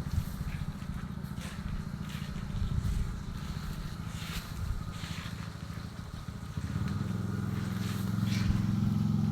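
A small engine running steadily, its note shifting and growing slightly louder about six and a half seconds in, with scattered scrapes and clicks.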